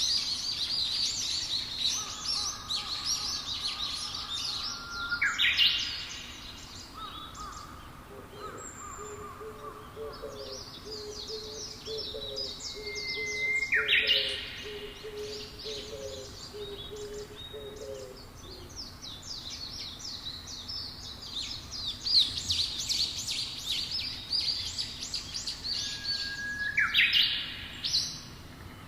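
Birdsong: many birds chirping and trilling in quick high notes. Three loud rising calls sweep upward about five, fourteen and twenty-seven seconds in. A lower note repeats in a quick series for about ten seconds in the middle.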